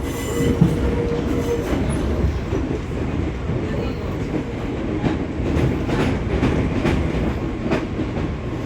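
Fujikyu 6000 series electric train (a converted 205 series) running, heard from inside the passenger car: a steady rumble of wheels on rail with occasional sharp clacks over rail joints, a few of them in the second half.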